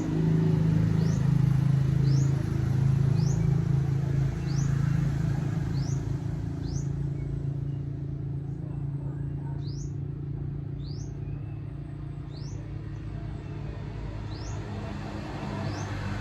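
Motorcycle engine running steadily, growing quieter after about five seconds, while a bird gives short rising chirps about once a second.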